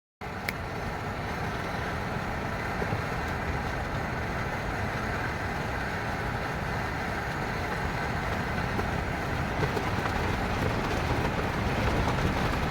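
Heavy wind and rain: a steady rushing noise with a deep rumble, broken by a brief dropout right at the start.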